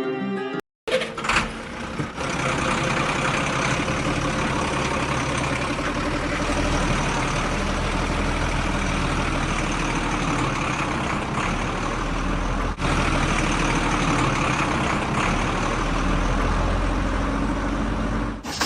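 A motor running steadily, with a low hum under an even mechanical noise.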